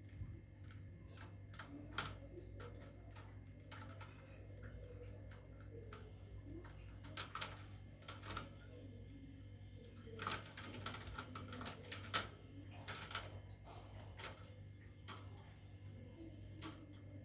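Lovebirds' beaks and feet clicking and tapping on a wire cage and its door fastening, in irregular light clicks that come in small clusters, over a steady low hum.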